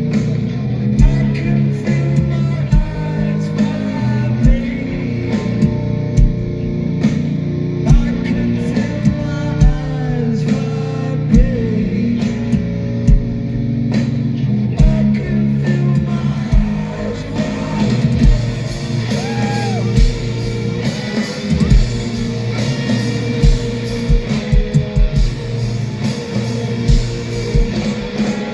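Live post-punk band playing loud: distorted electric guitars over a drum kit with regular kick-drum hits.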